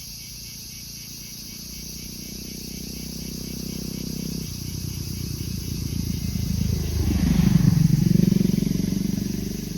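A motor vehicle approaching and passing, its engine growing louder to a peak near the end and then starting to fade, over a steady chorus of crickets.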